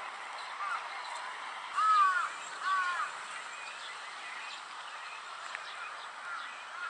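A crow cawing three times: a faint call under a second in, then two loud arched caws about two and three seconds in. Faint high chirps of small birds sound over steady outdoor hiss.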